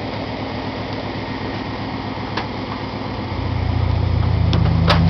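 Car engine running steadily; about three seconds in a deeper, louder low rumble comes in and builds gradually.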